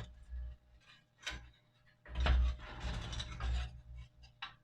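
Screwdriver working small screws out of an old Mamod tinplate toy steam engine: scattered metallic clicks and scrapes, with a sharp tick about a second in, a busier spell of scraping in the middle, and another tick near the end.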